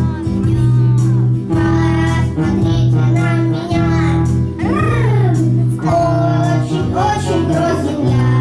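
A song: a high voice singing over a musical accompaniment with long held bass notes.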